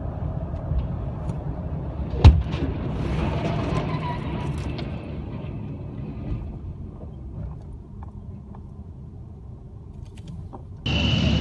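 A vehicle's low rumble with one sharp, loud bang about two seconds in. The rumble then slowly fades, and near the end it is cut off by a louder burst of noise carrying a steady high tone.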